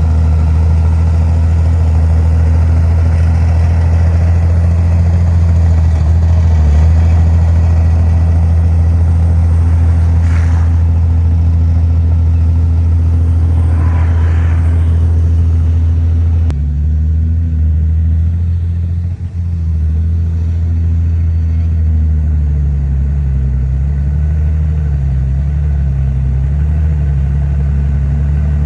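Heavy diesel earthmoving machinery running steadily with a deep engine drone. In the second half the engine speed rises and falls repeatedly, as under changing load.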